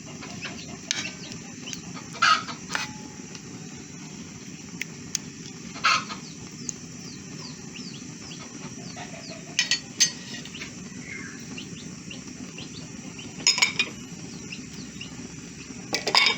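Blended spice paste and beef bubbling in a wok, a steady low hum under many faint quick pops, broken about five times by short sharp louder sounds.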